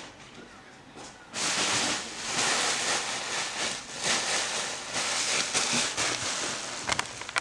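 Loud rustling and crinkling of packaging, starting about a second in and going on for about six seconds.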